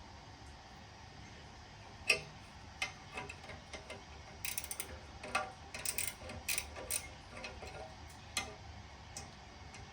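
Hand tools working brass furnace fittings: irregular sharp metal clicks and clinks, starting about two seconds in and coming thickest in the middle.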